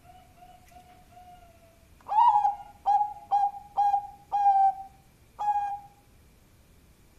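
Bangkok-type zebra dove (perkutut) cooing: a run of about five soft low notes, then a louder phrase of six short, clipped coos, each starting sharply, over about four seconds.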